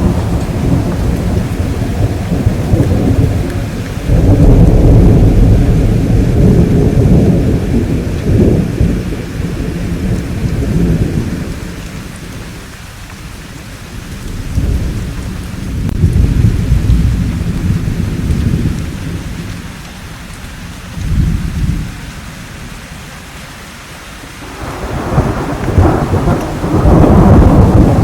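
Thunderstorm: deep rolling thunder swelling and fading in repeated waves over steady rain. The rumbles are loudest about four seconds in, again around fifteen seconds in, and near the end, easing off in between.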